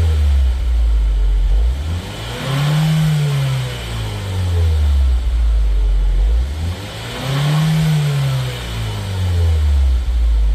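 2015 Ford Focus Mk3 2.0-litre four-cylinder engine through an aftermarket full exhaust (header with metal catalyst, mid muffler, dual centre tailpipes) being revved twice while standing, rising and falling back toward idle each time, about three and seven seconds in.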